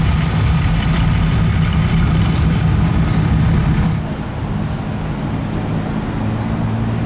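Truck engines running in slow cruising traffic. The sound changes abruptly about four seconds in to a single steadier, lower engine note.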